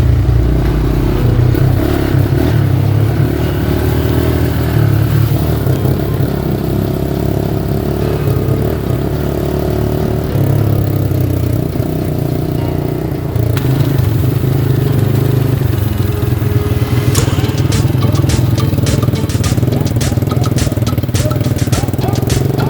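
A car engine running steadily, heard with background music. Near the end, a rapid run of sharp ticks joins in.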